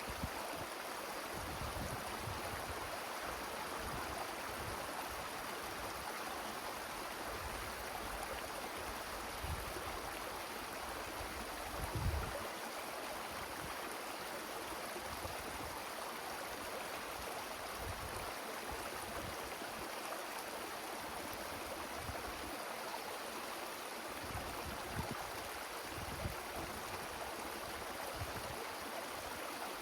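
Wind rushing steadily through forest trees, with irregular gusts buffeting the microphone as low rumbles, the strongest about twelve seconds in.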